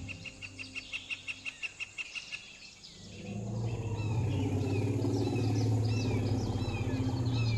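Birds calling: a quick run of short repeated high notes for the first two seconds or so, then repeated short falling chirps. A steady low hum swells in about three seconds in.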